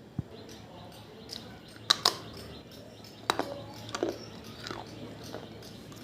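Water-soaked baked clay diya pieces crunching and cracking, a series of sharp, irregular crunches with the loudest pair about two seconds in.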